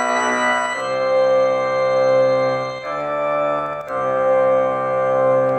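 Held chords on a keyboard instrument with an organ-like tone, changing to a new chord three times.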